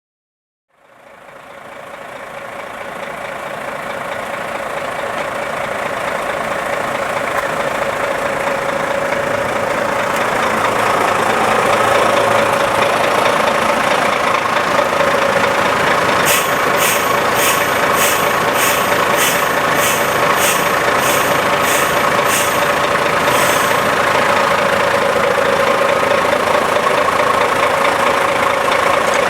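IVECO/Astra 8x8 recovery truck running at a steady idle with a constant hiss, while its central tire inflation system deflates the tyres. The sound fades in over the first several seconds. Midway a run of about a dozen evenly spaced clicks comes at roughly one and a half a second.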